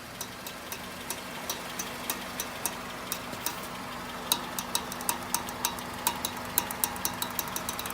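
Rhythmic clicking from a worn CV joint on a 2002 Honda CR-V's front drive axle while turning right, over the steady hum of the engine. The clicks come about three a second and quicken to about four a second in the second half as the car picks up speed; a worn CV joint is the cause, cured by replacing the whole axle.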